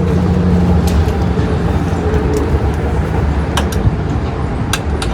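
Tow vehicle's engine running steadily with a low rumble. A few sharp clicks of strap and latch hardware are heard over it.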